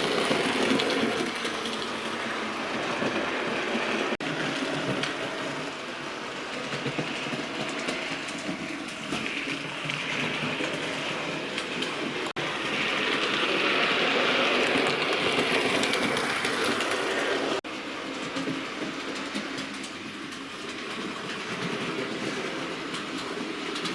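Bachmann OO-gauge A1 Pacific model locomotive running on model railway track: the steady whirr of its motor and wheels on the rails, louder for a stretch in the middle. Three brief sudden breaks cut into the sound, about four, twelve and eighteen seconds in.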